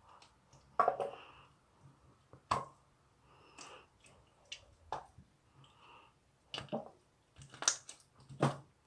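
Slime being squeezed and stretched by hand, making irregular sticky clicks and squelching pops every second or so.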